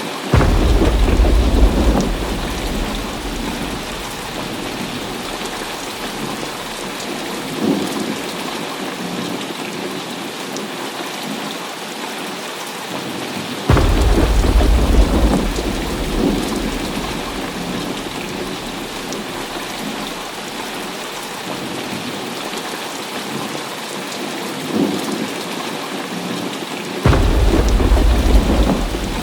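Heavy rain falling steadily. Thunder breaks out three times, each a sudden low rumble that lasts a couple of seconds and fades, about thirteen seconds apart.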